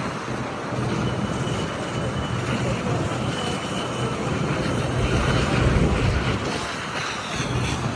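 Steady low rumble of vehicle engines running, with a faint high tone coming and going.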